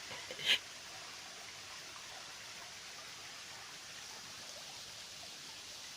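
Steady rush of flowing river water, an even hiss, with one short sharp sound about half a second in.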